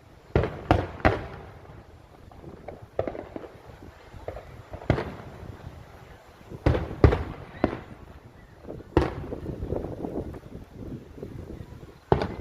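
Fireworks bursting overhead in a series of sharp bangs: three in quick succession at the start, then single bangs every second or two, with a close pair about seven seconds in. A longer spell of rumbling noise follows the bang near nine seconds.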